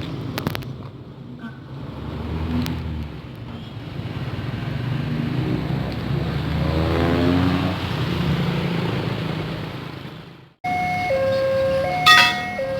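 Road traffic passing, with one vehicle's engine accelerating and rising in pitch about two-thirds of the way through. After a sudden cut near the end, a level-crossing warning bell starts, alternating between two tones with sharp regular strikes.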